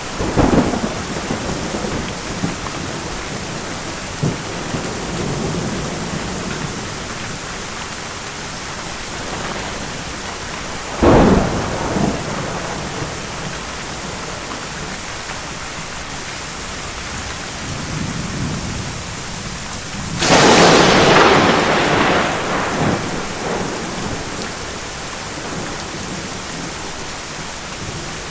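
Thunderstorm: steady rain with thunder. Sharp thunder cracks come just after the start and about eleven seconds in, and the loudest clap, about twenty seconds in, rumbles away over two or three seconds.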